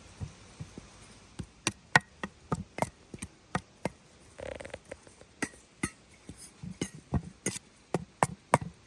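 A utensil knocking and scraping against a bowl as boiled egg yolks are crushed and ground fine: irregular sharp clicks, with a brief scrape about halfway through.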